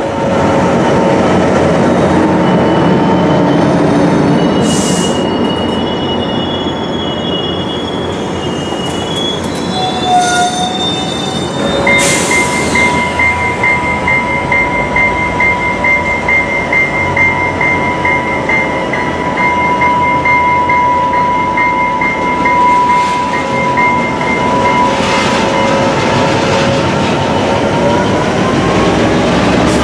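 Trinity Railway Express commuter train running on the rails, with squealing wheels and a steady high whine that rises in pitch near the end.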